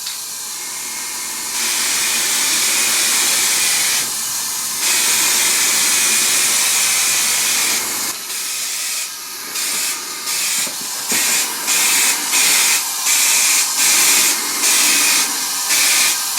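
Aerosol spray can of gloss black paint hissing as it sprays a top coat: two long sprays with a short break between, then a run of short bursts about one a second.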